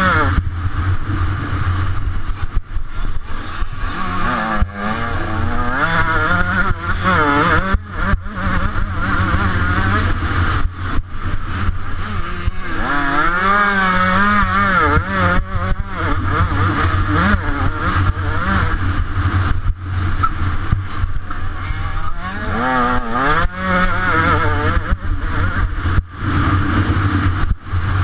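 125cc motocross bike's two-stroke engine, heard close up, revving hard and falling back over and over. Its pitch keeps rising and dropping with the throttle and gear changes, broken by many brief cut-offs.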